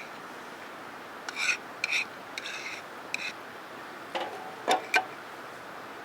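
Four short rasping scrapes, then three sharp knocks in the last couple of seconds.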